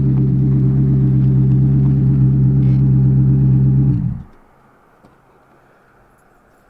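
2005 Maserati Coupé GT's 4.2-litre V8 running steadily at an even pitch through its aftermarket Larini exhaust, then switched off about four seconds in, the exhaust note dying away within a fraction of a second.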